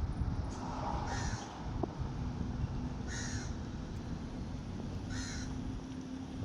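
A crow cawing three times, about two seconds apart, over a steady low rumble.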